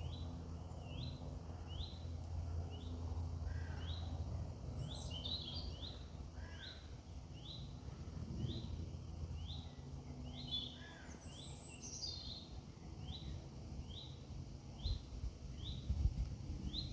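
A small bird repeating a short rising chirp about once a second, with a few other bird calls, over a steady low hum of background noise.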